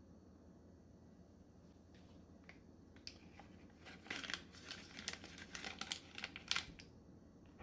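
Crinkling and rustling from something thin being handled, in a string of quick crackles from about three seconds in until shortly before the end.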